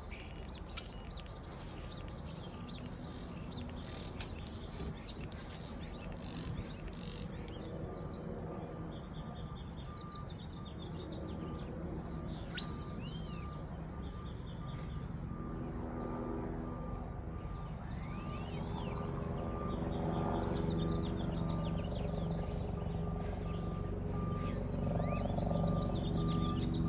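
Songbirds singing: a run of loud, sharp, down-curving whistled notes about four to seven seconds in, then several rapid trills. Under them a vehicle engine rumbles, growing gradually louder, and from about eight seconds in its reversing beeper sounds at a steady pace.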